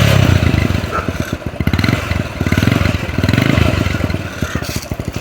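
Kawasaki Bajaj 4S Champion's small four-stroke single-cylinder engine running, its revs rising and falling a few times as the throttle is blipped.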